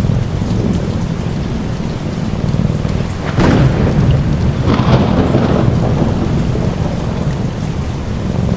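Steady rain with a deep, continuous rumble of thunder; two sharper thunder cracks break through about three and a half seconds in and again around five seconds.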